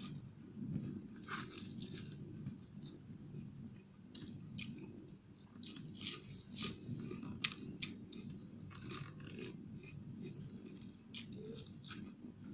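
Close-miked chewing of crispy fried fish: irregular crunches and wet mouth clicks. A steady low hum runs underneath.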